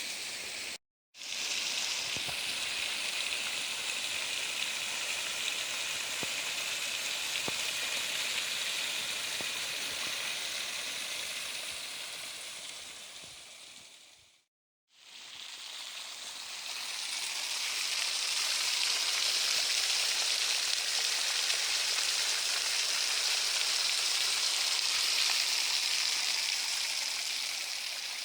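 Waterfall, a steady rush of falling water. It drops out abruptly about a second in, and fades out and back in about halfway through.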